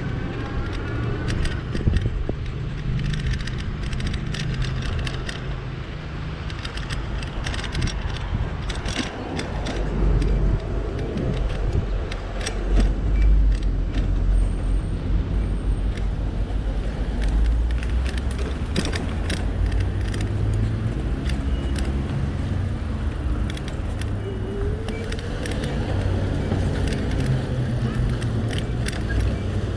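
Street traffic and road noise heard while riding an e-bike through city streets: a steady low rumble of cars with many short sharp clicks and rattles.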